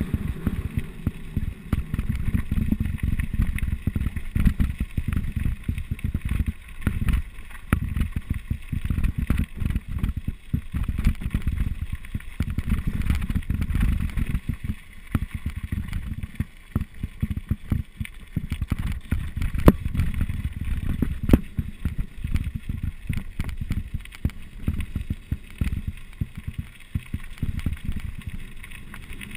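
Mountain bike descending a rough trail: wind rushing over the camera microphone in a steady, gusting rumble, with frequent rattles and knocks from the bike over bumps.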